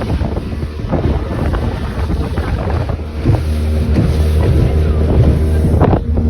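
Speedboat engine running steadily under way, with wind buffeting the microphone.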